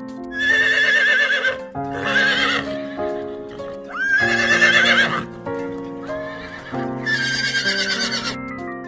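Horse whinnying four times, each call a shaky, quavering neigh, over light background music.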